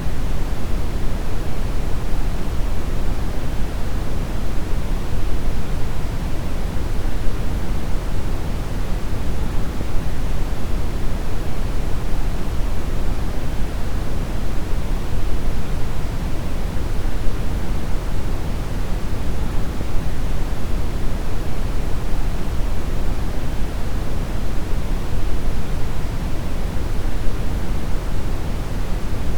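Steady deep brown noise: an even, unbroken rumbling hiss, strongest in the lows and falling off toward the highs.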